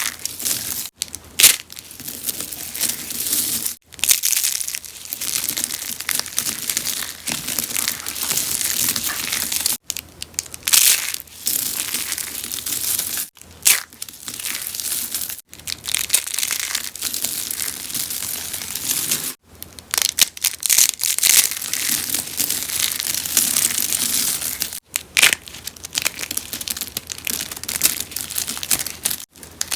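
Rose soaps being crushed and crunched by hand: a steady crackling and crinkling, with short pauses every few seconds between handfuls.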